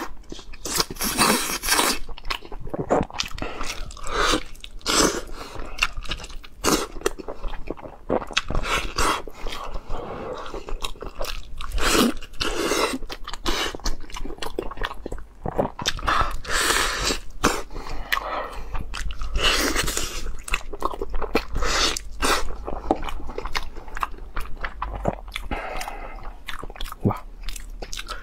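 Close-miked eating of stewed lamb leg: biting and chewing meat pulled from the bone, heard as a quick, irregular run of short mouth clicks and bites.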